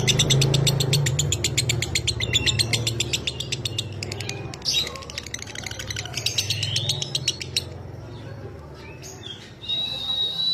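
Lovebird ngekek: a fast, dry chattering trill of sharp clicks, about ten a second, for the first four seconds or so. It is followed by shorter chattering phrases and squeaky notes.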